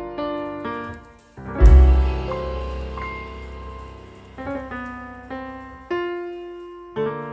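Slow, gentle piano music: a run of evenly struck notes, a brief drop-off, then a deep low note about one and a half seconds in that rings on beneath slower notes.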